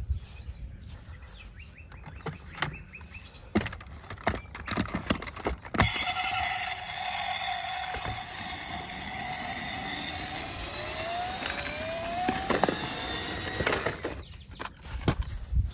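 Clicks and knocks of plastic toy cars being handled. Then, about six seconds in, an electronic toy sound effect sets in: a steady multi-tone sound that rises in pitch near the end before more clicks.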